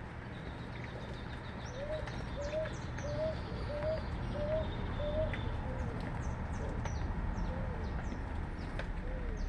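A dove cooing: a run of about seven short coos, each rising then falling, about one and a half a second, followed by a few fainter ones. A steady hiss of rain runs under it, with a few faint high chirps from small birds.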